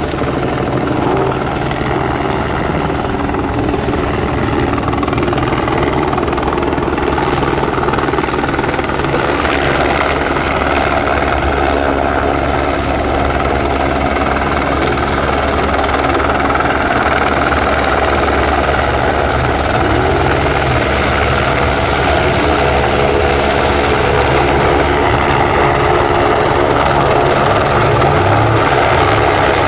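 Helicopter flying overhead, its rotor and engine running steadily and growing slightly louder.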